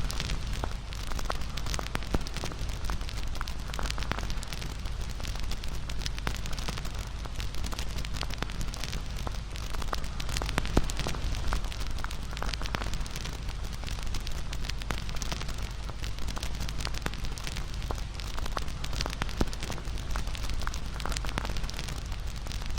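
Wood campfire burning with a steady crackle of small snaps, and a few louder pops.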